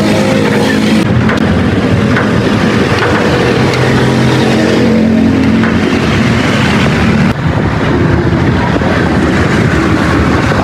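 Vehicle engines running amid road traffic noise, with abrupt changes about a second in and again near seven seconds in.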